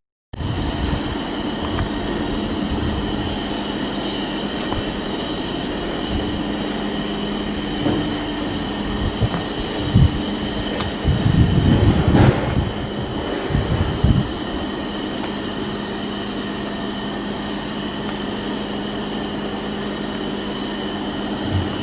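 Steady machinery hum with a few heavier knocks and clanks near the middle.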